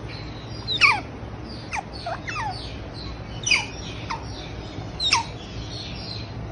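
A bird calling repeatedly: about seven short, high cries, each falling steeply in pitch, over a steady background hum.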